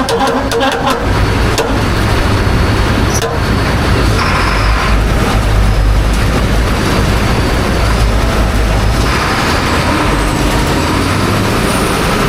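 Combine harvester running while the slip clutch on its plugged dirty-grain return auger trips, a rapid clatter of about seven clicks a second that stops about a second in. The combine then runs on with a steady low rumble. The clutch slipping protects the auger chain and flighting from a plug of wet corn.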